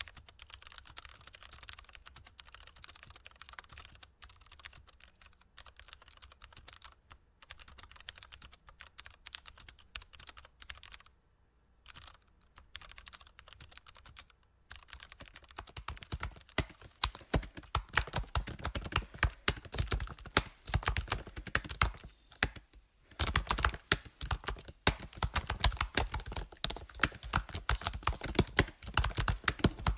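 Computer keyboard typing: a continuous run of key clicks, fairly faint for the first half with a brief pause, then louder and denser from about halfway on, with one short break.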